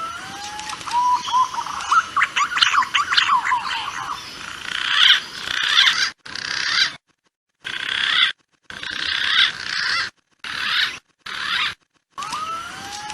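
Punai (green pigeon) lure-call recording: gliding whistled notes at the start, then many overlapping chattering calls. The calls are cut by several abrupt dead silences in the second half.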